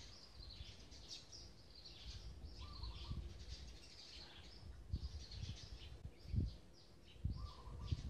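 Birds chirping busily in short high notes, with a lower phrase of a few quick notes about three seconds in and again near the end. A few brief low rumbles come and go underneath.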